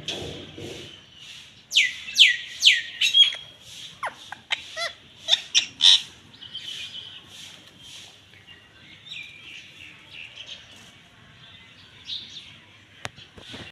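Parrot calling: four loud shrieks that fall sharply in pitch about two seconds in, then a quick run of shorter chirps and falling notes, fading to soft scattered chirping.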